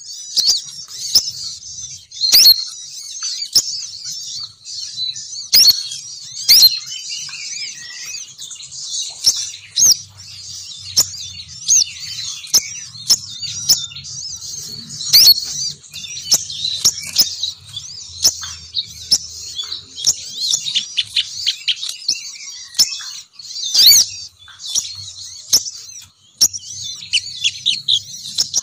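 Sogon bird calls, a female sogon's call used as a bird-catching lure: continuous rapid high twittering and chirping, broken by frequent sharp, loud notes.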